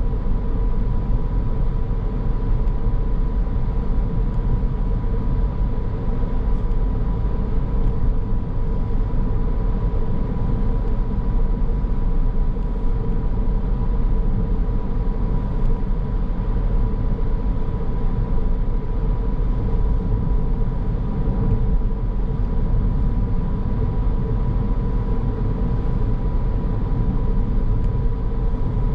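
Steady road and engine noise of a car driving at an even pace, with a faint constant whine running through it.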